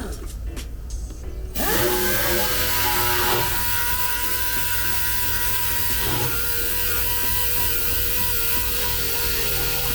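A small high-speed rotary power tool whining: it winds down, starts up again about a second and a half in and runs steadily, its pitch dipping briefly twice as it is loaded against the work.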